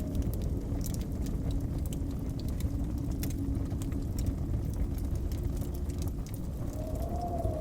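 Wood fire crackling with scattered sharp pops over a steady low rumble of blizzard wind. The wind rises into a brief rising-and-falling howl near the end.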